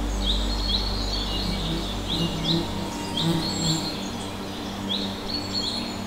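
A bird calling with short, high, upswept notes, repeated at irregular intervals, often in twos.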